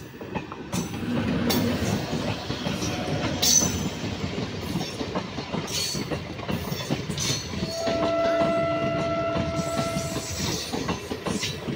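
Electric freight train passing at speed, growing louder in the first second, its wheels clattering over the rail joints. About eight seconds in, a steady horn sounds for roughly two and a half seconds.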